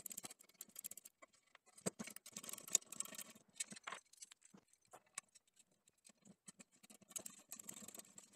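Faint, irregular clicks, taps and light scrapes of small metal hardware being handled: bolts and nuts being undone and refitted on the sander stand's top.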